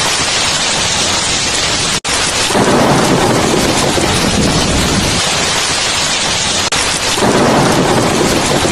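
Heavy rain falling steadily, with thunder rumbling and swelling twice. The sound cuts out for an instant about two seconds in.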